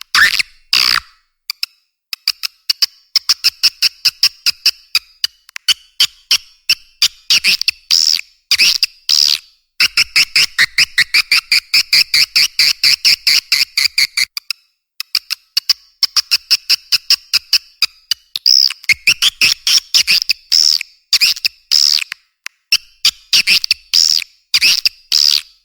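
Recorded swiftlet calls played as a nest-lure track: rapid trains of sharp chirps and clicks over a high twittering chatter, with a short break about fifteen seconds in.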